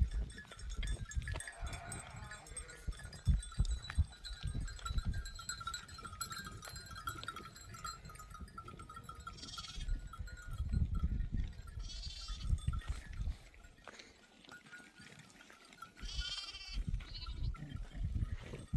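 A flock of goats or sheep bleating, with short high-pitched calls about ten seconds in, again about two seconds later and near the end, over a low irregular rumble.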